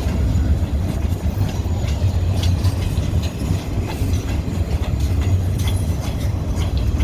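Freight train's log and pulpwood cars rolling past at a crossing: a steady low rumble with scattered clicks of wheels over rail joints.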